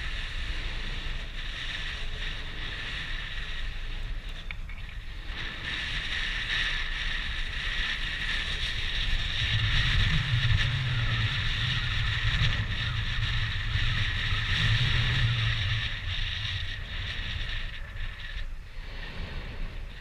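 Wind buffeting the microphone on Mount Yasur's crater rim, with a low rumbling whoosh from the volcano swelling from about ten seconds in and fading near sixteen. The uploader takes the whoosh for a small eruption or lava sloshing in the crater. Occasional faint clicks come from the camera handle's cord.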